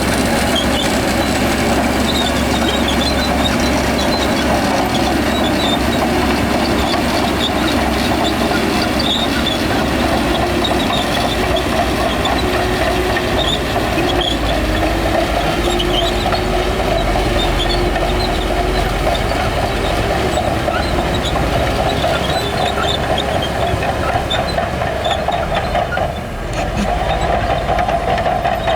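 Crawler bulldozer working, its diesel engine running steadily under load with the clank and squeak of its steel tracks. The level dips briefly near the end.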